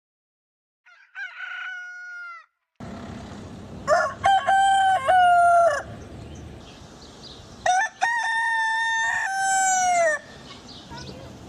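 Rooster crowing three times: a fainter crow about a second in, then two louder ones. Each is a few short notes ending in a long held note that drops in pitch at the end.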